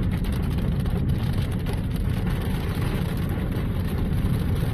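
Steady road and engine rumble inside a moving car's cabin, strongest at the low end and even throughout.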